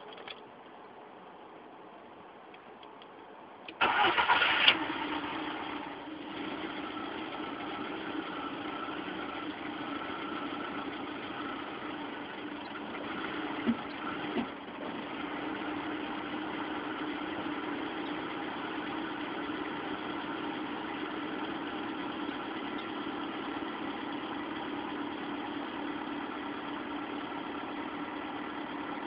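Seat Ibiza 1.4 engine starting with a short loud crank about four seconds in, then idling steadily, with two brief knocks near the middle. The owner reports trouble with the engine after start.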